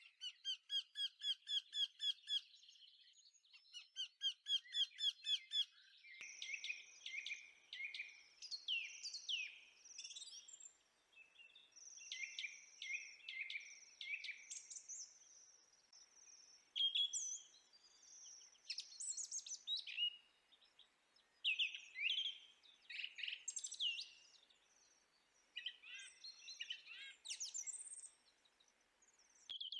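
Birds singing: two bursts of a fast, evenly repeated trill, then a run of varied chirps and whistles.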